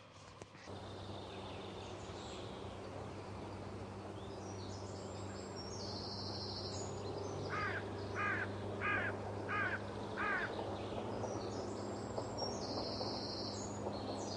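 Steady background hum and hiss. About halfway through, a bird calls five times in a row, roughly one call every 0.7 seconds.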